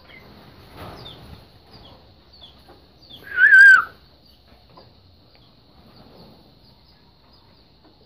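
A bird gives one loud, wavering call lasting a little under a second, about three seconds in, over faint short high chirps that repeat throughout.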